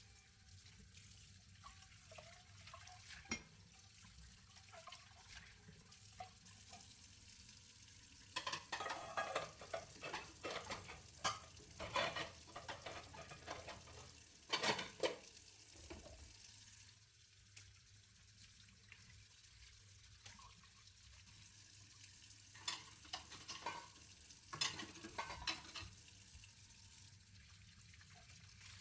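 Dishes and utensils being handled while washing up by hand: scattered clinks and clatters, busiest in a spell starting about a third of the way in and another shorter one near the end, over a faint background.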